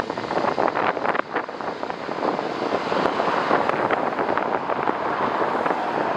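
Wind buffeting the microphone in irregular gusts over the steady rushing noise of a jet airliner's engines; the gusts are strongest in the first couple of seconds.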